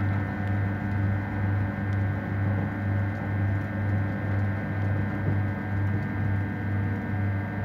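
Electric train heard from inside the carriage while running: a steady low hum that throbs about twice a second, with a fainter steady whine above it.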